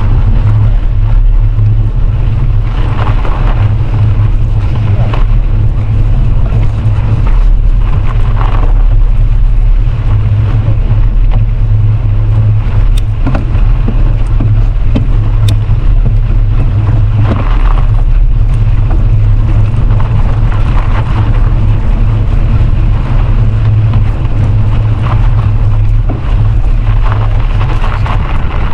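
Wind buffeting the microphone of a camera riding along on a bicycle: a loud, steady low rumble with rushing noise, and two brief clicks around the middle.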